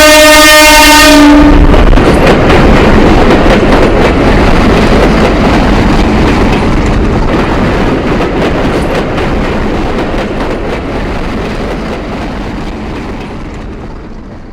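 A train sounding a long horn blast that cuts off about a second and a half in, then running past with a heavy rumble and rattle of wheels that slowly fades away.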